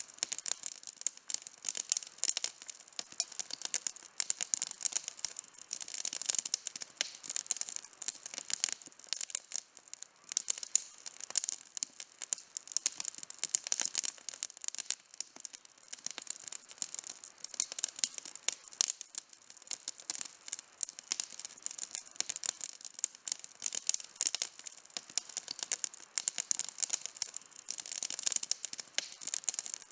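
Campfire burning with dense, continuous crackling: many sharp pops and snaps from the burning wood.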